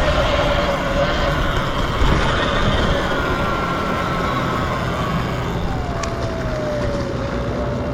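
Sur-Ron electric dirt bike riding with a steady wind rumble, its motor whining; the whine drops in pitch over a few seconds midway, then holds steady.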